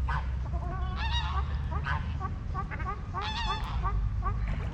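Geese honking: a handful of loud calls about a second apart, over a fast run of short high peeps from other birds and a steady low rumble.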